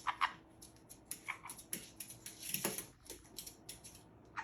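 Parrots handling a nut with their beaks: scattered soft clicks and taps, irregular and brief, with a faint short parrot call or two among them.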